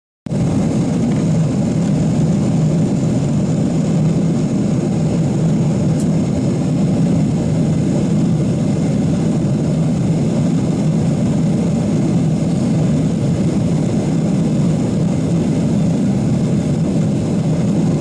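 Steady cabin drone of a Boeing 777-300ER in flight, the even rumble of its jet engines and rushing air, with no change in level. A single faint click about six seconds in.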